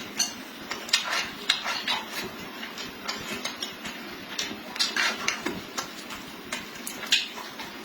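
Close-up eating sounds: irregular sharp smacks and clicks of chewing, with utensils tapping against dishes.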